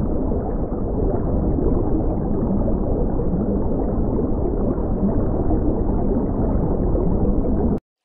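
Underwater ambience: a steady, muffled gurgling rush of water noise around a swimming fish school. It cuts off abruptly near the end.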